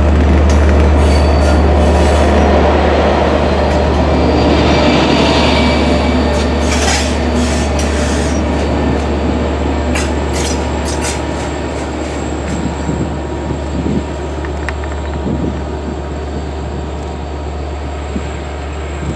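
LIRR diesel commuter train running on the Montauk Branch, with a heavy steady low rumble. Its wheels squeal against the rails several times in the first half. The sound slowly grows quieter.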